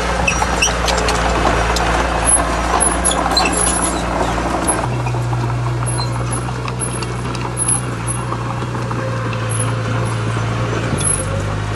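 Heavy diesel earthmoving machinery running under load, with clattering through the first half. The engine note drops about five seconds in, where the clatter dies down.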